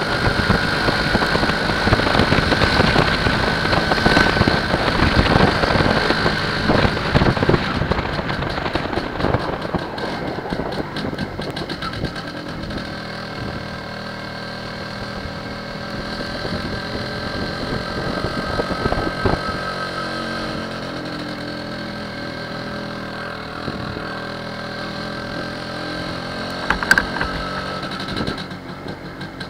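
MZ ETZ 301's single-cylinder two-stroke engine running as the motorcycle is ridden, with rushing noise over the microphone for the first several seconds. About ten seconds in it grows quieter and the engine note settles into a steady, lower running sound as the bike slows. There is a brief sharp sound near the end.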